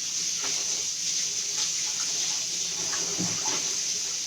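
Kitchen tap running steadily as hands are washed under the stream.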